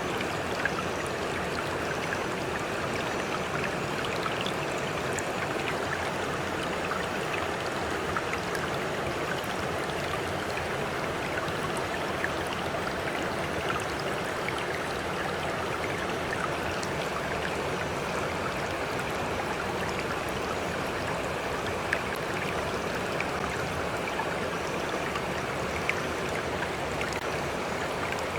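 Stream flowing steadily, with water lapping close by and small splashes and trickles scattered through it.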